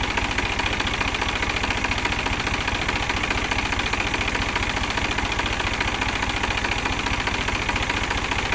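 New Holland 47 hp tractor's diesel engine idling steadily with an even low-pitched chug, as a carbon-cleaning additive is being drawn into it.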